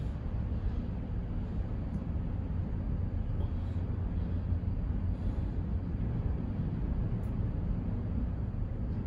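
Steady low rumble of a moving gondola cableway cabin, with a few faint clicks.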